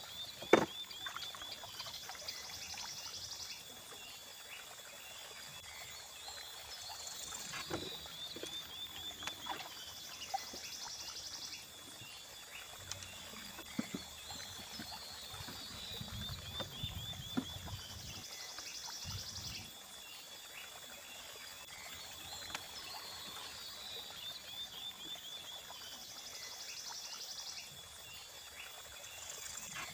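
Calling animals: a short, rapid, high trill repeats about every eight seconds over a steady natural background. A few sharp knocks break in, the loudest about half a second in.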